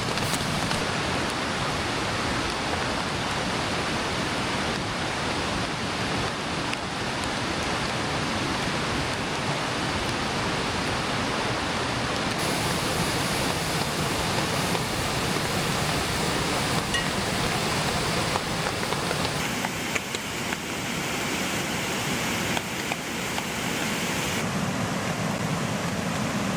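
Steady rushing of a mountain creek running past, with no pauses, its tone shifting abruptly about halfway through and again near the end.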